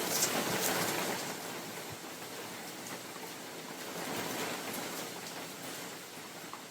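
Steady spring rain falling on a forest canopy while wind gusts through the trees, swelling twice, with scattered sharp drips of single drops close by.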